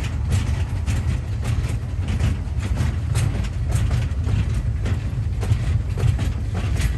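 Tour train rolling along, heard from on board: a steady low rumble with frequent irregular clacks and rattles from the wheels and carriage.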